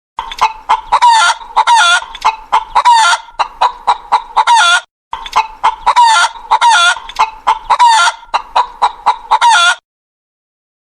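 Chicken clucking and cackling: a fast run of short calls with a few longer ones, heard twice with a brief break about halfway.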